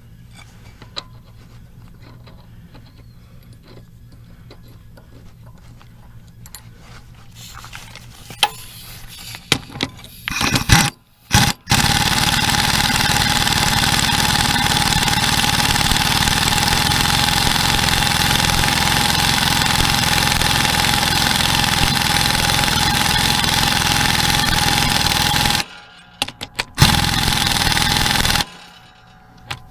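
Pneumatic impact wrench running a bolt into the mower blade spindle: a few short blips about ten seconds in, then a long steady run of about fourteen seconds that cuts off, and another short burst near the end. The bolt still goes in a little rough.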